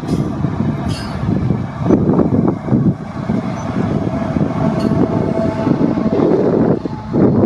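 Freight train locomotives running as a westbound train comes along the line, heard through heavy, gusting wind noise on the microphone.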